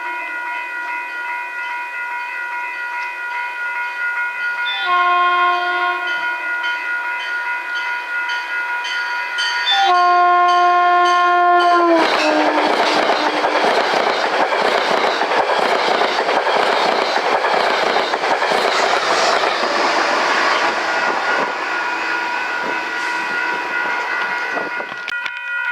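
Passing train sounding its horn: a long, steady horn call swells louder twice and drops in pitch as the locomotive goes by about 12 seconds in. Then the train's wheels clatter past over the rails.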